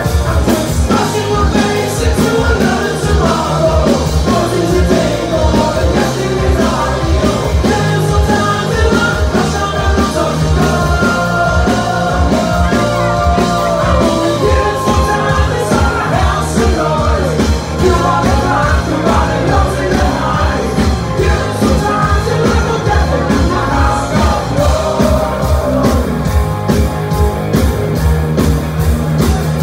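Rock band playing live: a sung lead vocal over electric guitars, bass and a steady drum beat.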